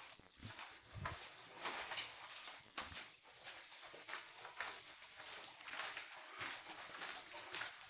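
Faint footsteps at a steady walking pace, about two steps a second.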